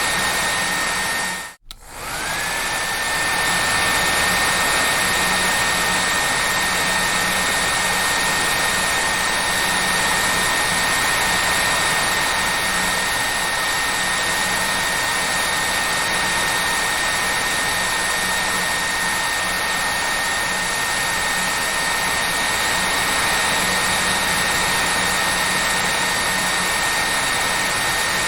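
Hair dryer running steadily: an even rush of air with a high whine. About a second and a half in, it cuts out for a moment and comes back, its whine rising back up to pitch.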